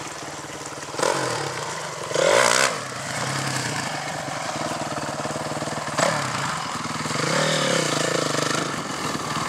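Honda CRF450R dirt bike's single-cylinder four-stroke engine revving in blips as it climbs. There is a short rev about a second in and a louder rev a little after two seconds, then the engine runs on and rises and falls again near the end.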